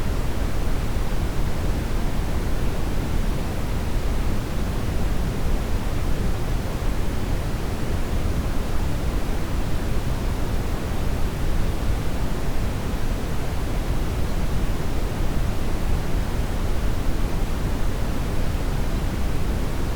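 Steady brown noise: an even, deep rushing hiss, heaviest in the low end and fading toward the top, unchanging throughout.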